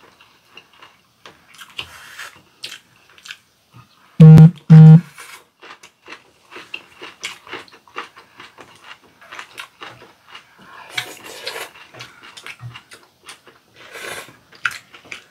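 Close-miked eating sounds: chewing and mouth smacks over fish roe soup, with light clicks of chopsticks and a spoon on ceramic bowls. About four seconds in, two short, very loud buzzes at one steady pitch cut in, one right after the other.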